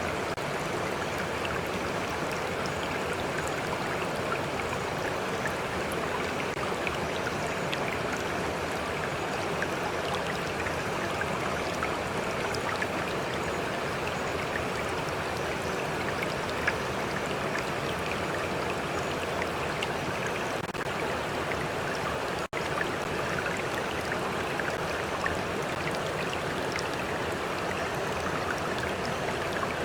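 Stream water flowing and lapping in a steady, even rush, with a momentary cut-out about three-quarters of the way through.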